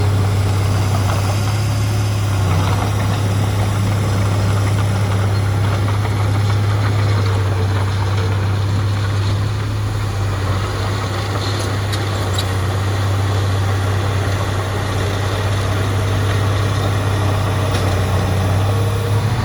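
Heavy diesel engine of a bulldozer or dump truck running steadily, with a strong, even low hum.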